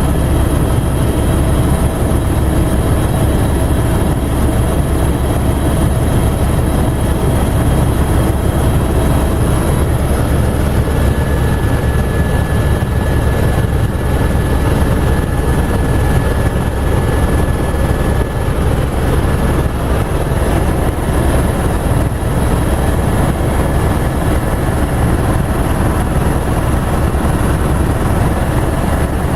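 Helicopter in flight: a loud, steady rumble of engine and rotor noise that holds unchanged throughout.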